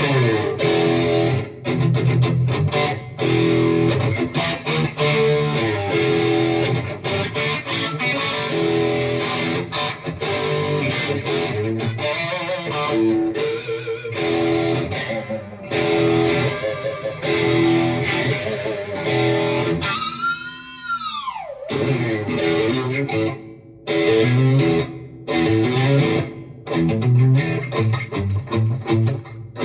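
Electric guitar played through a Two Notes Opus amp simulator's FlatBack V amp model at 70% gain: riffs and chords with short pauses, and one held note that swoops up and back down in pitch about two-thirds of the way through.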